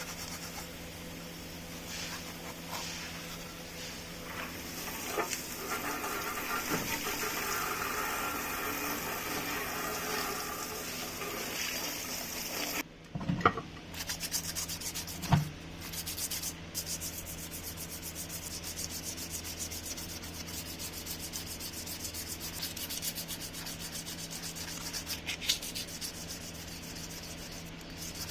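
Sanding on a part of an old table fan: a continuous scratchy rubbing over a steady low hum, broken by a brief dropout about halfway and two sharp knocks just after.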